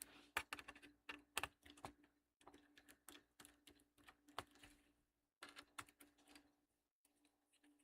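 Faint, irregular clicks and taps of an HP laptop's plastic bottom case being handled and worked open by hand and tool.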